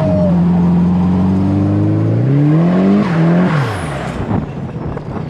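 Turbocharged SR20DET inline-four in a Nissan 240SX S14 under acceleration: the engine note holds steady for a couple of seconds, climbs in pitch, then drops away as the throttle is lifted a little over halfway through.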